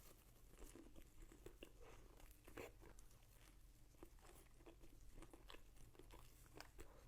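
A person chewing and biting crunchy food close to the microphone: faint, irregular crunches and mouth sounds, mukbang-style eating.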